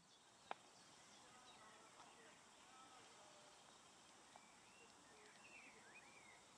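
Faint outdoor ambience: a low steady hiss with a few distant bird calls, thin whistled notes mostly near the end, and a single sharp click about half a second in.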